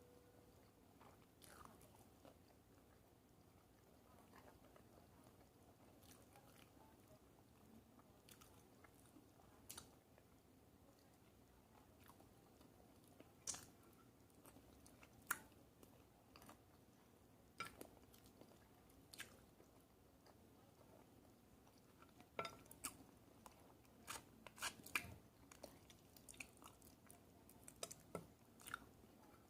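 Quiet chewing and crunching of food in the mouth, with scattered sharp clicks, sparse at first and coming more often in the last third.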